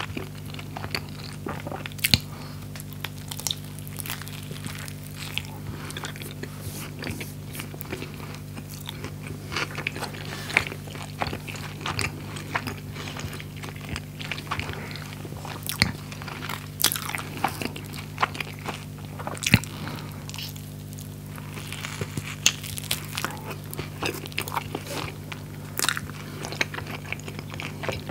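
Close-miked bites and chewing of a toasted skepasti pita sandwich with crunchy fried chicken inside: irregular crunches and crackles with wet mouth sounds. A steady low hum runs underneath.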